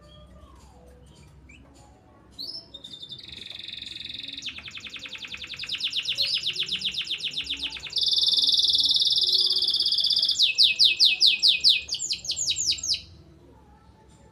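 Domestic canary singing one long song of linked trills: a quick rolled trill that builds in loudness, then a very fast, loud trill, then a run of slower, separate slurred notes. It starts about two seconds in and stops about a second before the end. The bird is just out of its moult and starting to sing again.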